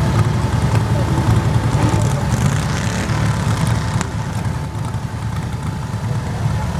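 Garden tractor engine running steadily, with no clear revving or change in pitch.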